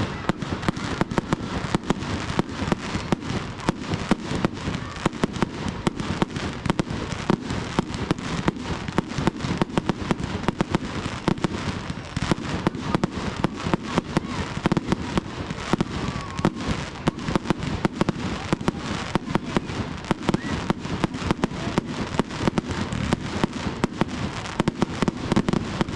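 Fireworks going off in a dense, continuous barrage of bangs and crackles, many per second, with no letup.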